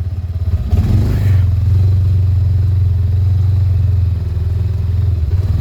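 UTV engine running steadily under way, a low even drone, with a short rush of noise about a second in.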